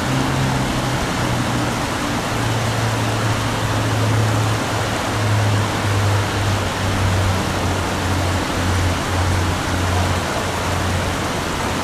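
Steady hiss of rain, with low bass notes of background music stepping underneath.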